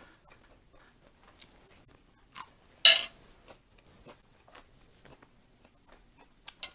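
Close-up eating sounds: a crisp bite into a raw lettuce leaf, loudest about three seconds in with a smaller crunch just before, surrounded by small clicks of chewing and mouth noise.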